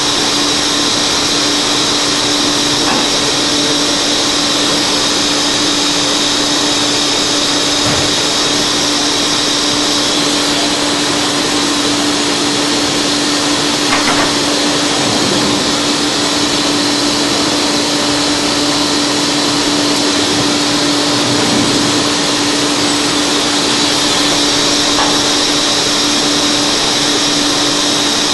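Studer S41 CNC cylindrical grinding machine running, a steady whirring machine noise with a constant hum underneath.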